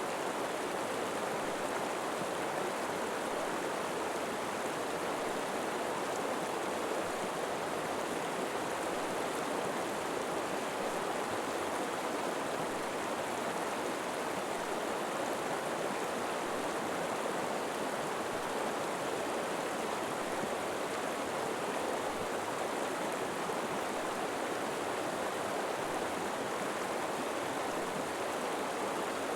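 River water flowing steadily over rocks, an even rushing with no breaks or single splashes.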